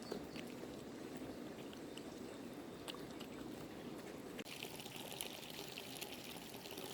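Faint steady trickling of running water, with a few light clicks; a higher hiss joins about four and a half seconds in.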